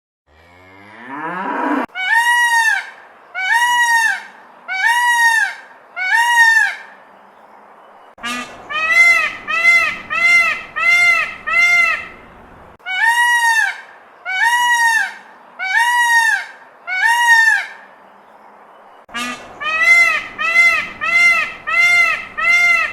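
A rising sweep in pitch, then runs of short, high-pitched animal calls, each rising and falling in pitch, about one every 0.7 s in groups of four to seven.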